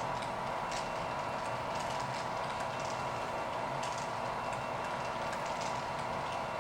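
Freight cars of a Union Pacific coal train rolling past with a steady noise, wheels clicking now and then over the rail.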